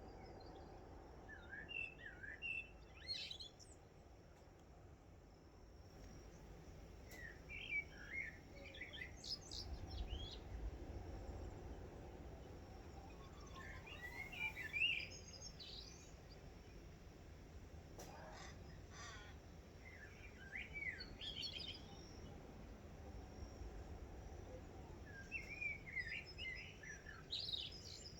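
Birdsong in short warbling phrases, repeated about every six seconds over a faint, steady low rumble.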